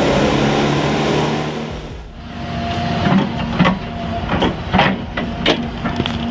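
Heavy machinery working timber: a diesel engine running steadily, then, after a brief dip about two seconds in, a steady whine with a run of sharp cracks and snaps of wood.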